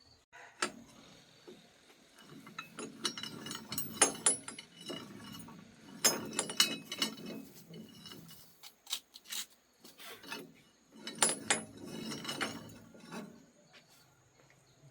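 Hand tools scraping and clinking against machine parts in three bouts of a few seconds each, with sharp clicks among the scraping.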